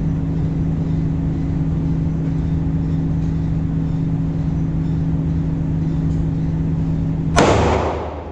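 A steady low hum, then a single sharp pistol shot near the end with a short echoing tail.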